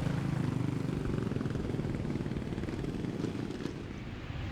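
Steady rumble of motorcycle engines running, with no clear revs or single passes.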